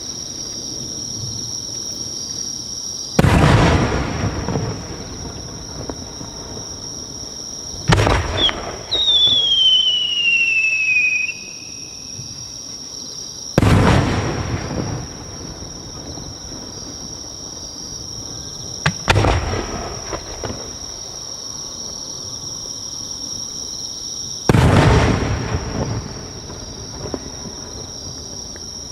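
Japanese No. 5 (15 cm) aerial firework shells bursting overhead: five loud booms about five seconds apart, each followed by a few seconds of rumbling echo. A falling whistle sounds for a couple of seconds after the second burst.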